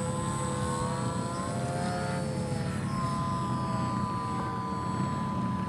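Electric motor and propeller of a radio-controlled Cessna 180H scale model in flight: a whine that rises and falls for the first few seconds, then holds steady, over wind rumbling on the microphone.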